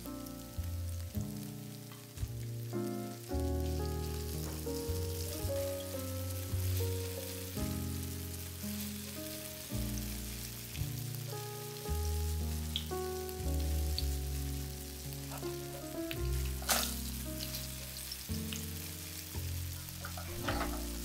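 Zucchini fritters with egg yolks sizzling gently in oil in a nonstick frying pan, with fine crackling and a few sharper pops, the loudest about two-thirds of the way through. Background music with a melody of single notes plays over the frying.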